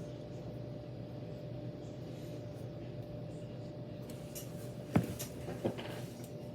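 Steady room hum with a faint steady tone under it, broken by a sharp click about five seconds in and a softer click shortly after.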